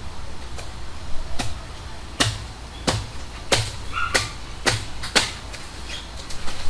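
A blade chopping into a coconut palm, a series of sharp strokes about one every two-thirds of a second, hitting harder through the middle of the stretch.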